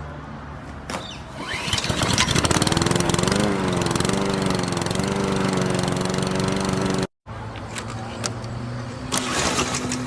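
A lawnmower-style engine drone. It winds up about a second or two in and runs as a steady buzz that wavers once, then cuts off abruptly after about seven seconds. A quieter drone with a few clicks follows.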